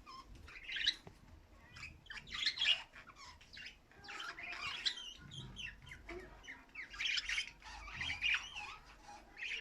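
Small pet cage birds chirping and squawking, in quick clusters of short calls again and again.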